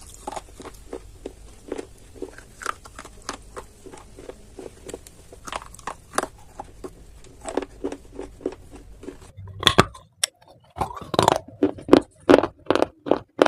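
Close-miked crunching and chewing of clay: a steady run of crisp bites and crunches. About nine seconds in, the background hiss drops out and louder crunches follow in an even rhythm, about three a second.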